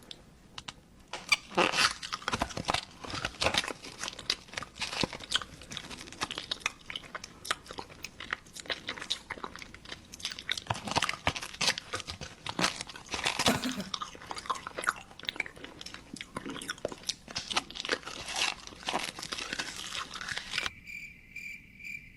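Close-miked mukbang eating: loud, irregular crunching, biting and chewing of crisp food. Near the end the crunching stops and a steady high-pitched tone begins.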